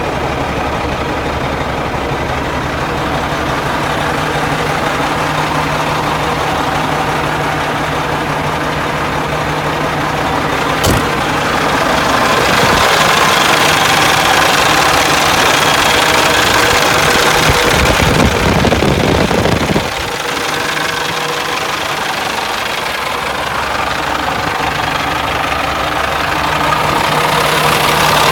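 Caterpillar diesel engine of a 2000 Sterling dump truck running at idle, getting louder for several seconds near the middle and then dropping back suddenly, with one sharp click partway through.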